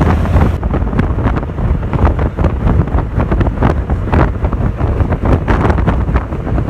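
Wind buffeting the microphone: a loud, uneven low rumble broken by many short crackles and knocks.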